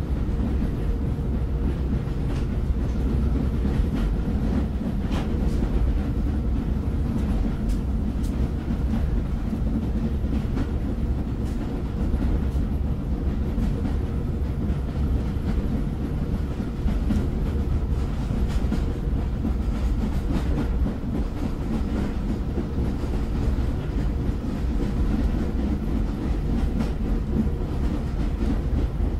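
Train running along the rails with a steady low rumble, with scattered faint clicks of the wheels over the track.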